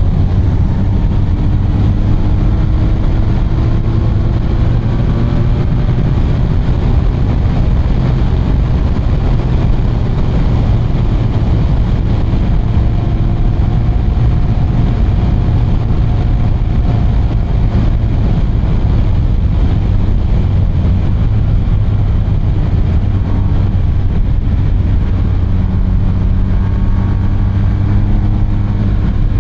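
BMW R 1250 RT's boxer-twin engine running steadily while riding, its pitch drifting slowly up and down.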